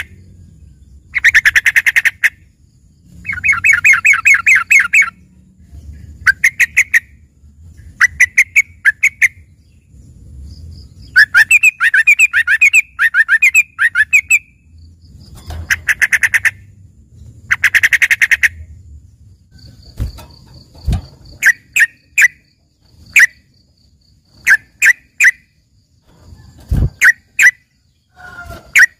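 Yellow-vented bulbul (trucukan) singing loudly, its song filled with learned phrases likened to a greater green leafbird's (cucak ijo): rapid trilled phrases about a second long, repeated every couple of seconds, then from about two-thirds through shorter separate chirps with a few sharp knocks.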